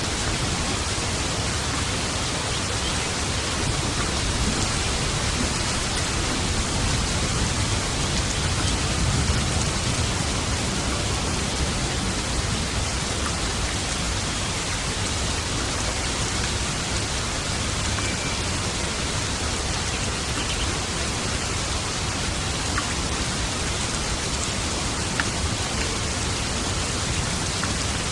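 Steady heavy rain, with a low rumble of distant thunder swelling and fading about a third of the way in.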